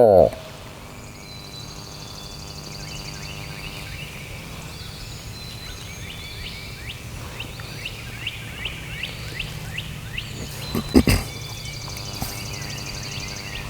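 Songbirds singing in the woods at dawn, with a run of quick, repeated rising chirps in the second half, after the last of a hooted owl locator call fades at the very start. A sharp knock comes about eleven seconds in.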